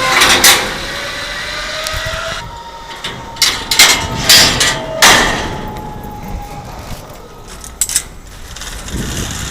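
Zip line trolley running along the steel cable, its whine rising over the first couple of seconds and then holding steady. Several sharp metallic clicks and knocks of the rigging come in the middle and again near the end.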